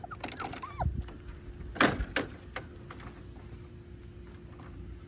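Young puppies whimpering briefly, then a few knocks and thumps, the loudest about two seconds in, over a faint steady hum.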